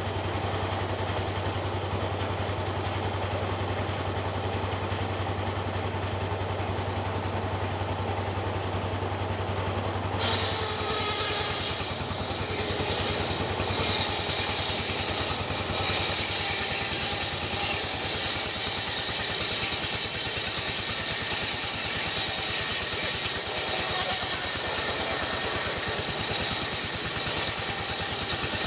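A small engine running steadily. About ten seconds in, the sound suddenly changes and becomes brighter and hissier, with the low hum fading.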